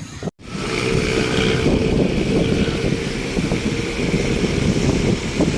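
Steady low rumble of a vehicle driving on a wet road, with wind buffeting the microphone. The sound cuts out completely for a split second near the start.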